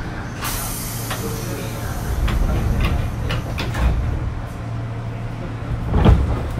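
Cabin running noise of a JR East 205 series 5000 electric train's motor car: a steady low hum with scattered clicks and rattles. A hiss comes in about half a second in, and a louder knock sounds about six seconds in.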